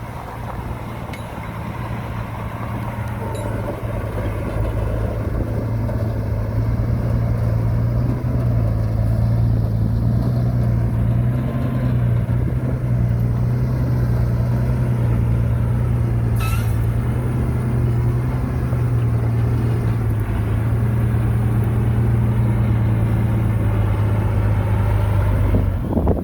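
Heavy diesel engine of earthmoving machinery running with a steady low drone. It grows louder over the first eight seconds or so, then holds steady, with a brief sharp hiss about two-thirds of the way in.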